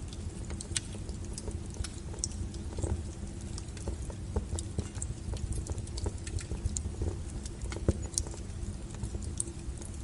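Wood fire crackling: irregular snaps and pops of burning firewood over the low, steady rumble of the flames, with one sharper pop about eight seconds in.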